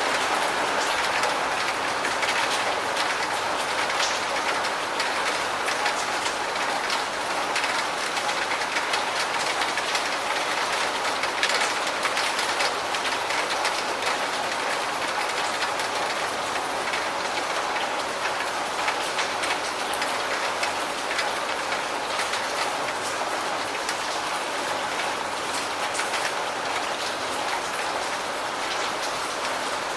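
Steady rain falling: an even hiss thick with small drop ticks.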